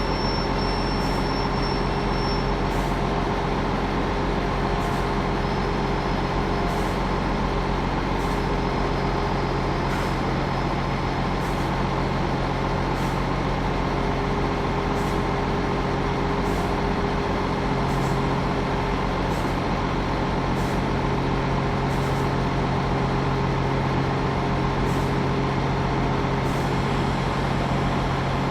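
Diesel train engine idling steadily, a constant low hum that neither rises nor falls.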